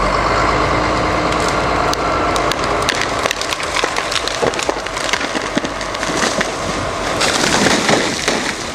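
Heavy saw logs dropping and crashing together, wood clattering and splintering with many sharp cracks throughout, over a steady whine in the first few seconds.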